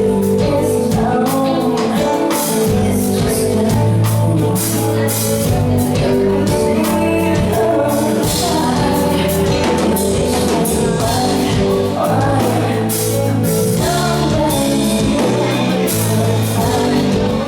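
A live band playing a pop ballad with a singer over it, with bass and a steady drum beat.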